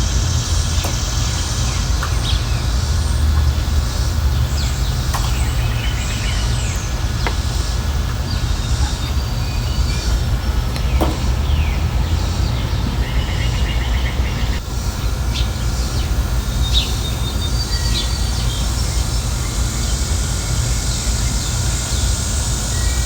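Small wild birds chirping and calling, short high notes scattered throughout, over a steady low rumble.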